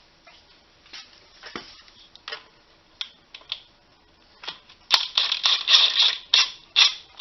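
Scattered metal clicks and clinks of tools and bolts being handled. About five seconds in they give way to a run of louder, rapid clattering.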